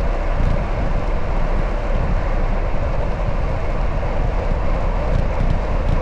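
Steady wind buffeting the microphone of a camera riding along on a moving bicycle, with the rumble of the ride underneath; the low end flutters unevenly throughout.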